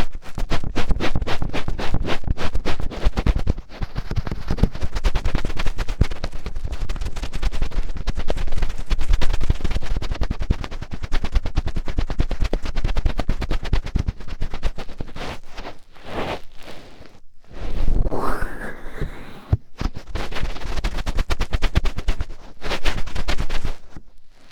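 Fingertips scratching and rubbing close against an ASMR microphone in a deep finger ear-cleaning sound: a fast, dense crackle of scratches. In the last third it breaks into a few short pauses, with a slower swishing rub about 18 seconds in.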